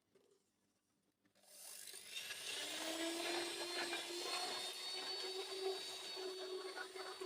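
A small electric motor switches on about a second and a half in, spins up with a rising whine and settles into a steady whirring run.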